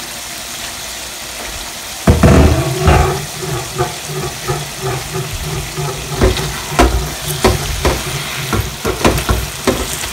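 Chicken curry sizzling in an uncovered non-stick pan. From about two seconds in, a spatula stirs the chicken, with repeated taps and scrapes against the pan.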